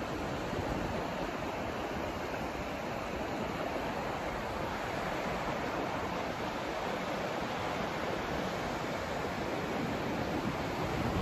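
Steady, even hiss of white noise, unchanging throughout.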